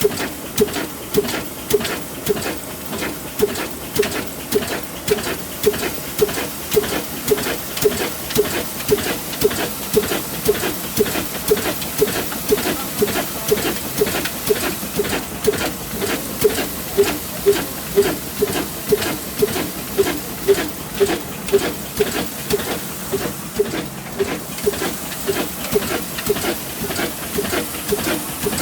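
A 75-year-old engine running at a steady slow rhythm, about two puffing exhaust beats a second, each with a hiss.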